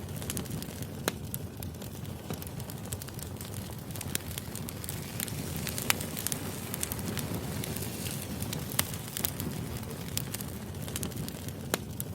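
Firewood burning: a steady low rush of flames with frequent, irregular sharp pops and snaps, one louder snap about six seconds in.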